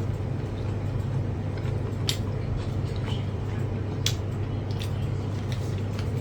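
Close-up chewing and mouth sounds of a person eating grilled meat, with a few short clicks, over a steady low hum.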